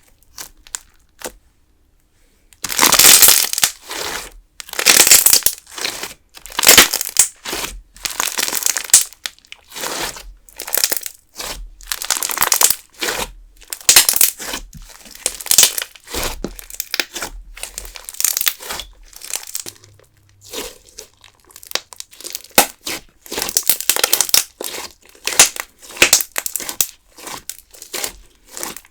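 Putty-style clear slime squeezed and pulled by hand in a fluffy, air-filled texture, giving irregular bursts of crinkly crackling. The bursts start about two and a half seconds in and come roughly once or twice a second.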